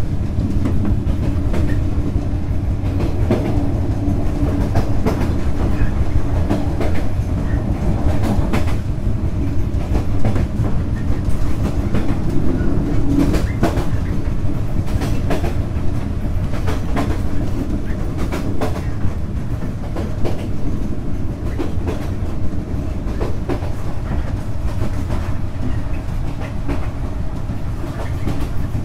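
Vietnam Railways SE19 passenger train running: a steady low rumble with frequent, irregularly spaced clicks and knocks from the wheels on the track.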